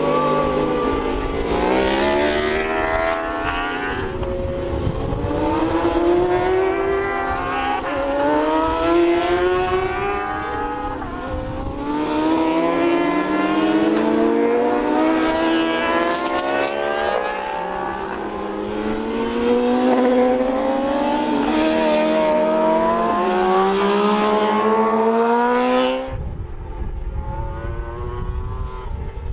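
Several racing motorcycles at full throttle, their engine notes climbing through the gears and dropping as they pass, overlapping one another. About 26 seconds in, the sound cuts abruptly to a quieter, lower rumble.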